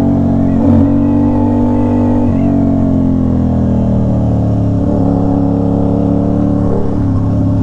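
Aprilia RS660's parallel-twin engine through an SC Project S1 full titanium exhaust, running steadily at cruise under the rider. The pitch wavers briefly about a second in and again near two and a half seconds, then eases slightly lower and holds.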